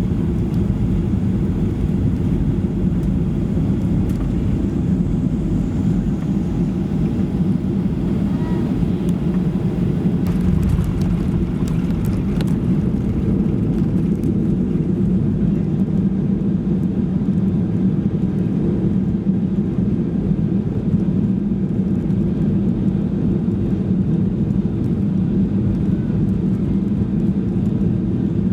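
Boeing 737-800 cabin noise heard from inside the cabin: a steady low rumble of engines and airflow, with a few faint clicks partway through.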